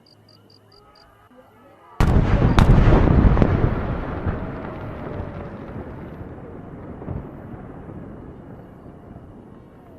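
A large aerial firework shell bursting: one sudden loud boom about two seconds in, a second sharp crack just after, then a long rolling rumble and echo that slowly fades away.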